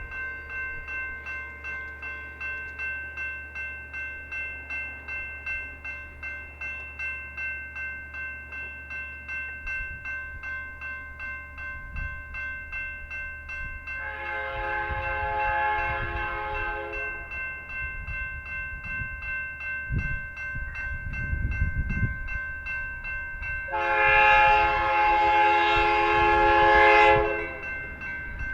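Railroad grade-crossing bell ringing steadily, about two strokes a second, as a BNSF freight train approaches with a growing rumble. The locomotive's air horn sounds two long blasts, about halfway through and again near the end, the second louder and closer.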